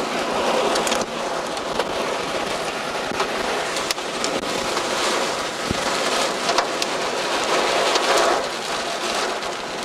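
Heavy rain pelting a vehicle's roof and windshield, heard from inside the cabin, with scattered sharp ticks throughout.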